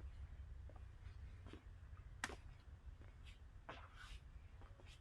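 Near silence: indoor room tone with a low steady hum and a few faint clicks, one sharper click about two seconds in.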